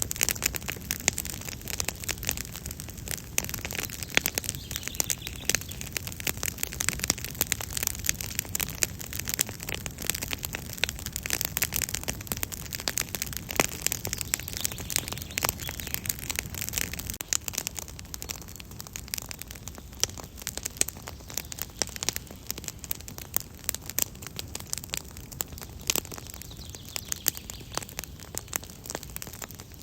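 Campfire crackling, with a dense, irregular run of small sharp pops and snaps over a low steady rush of flame.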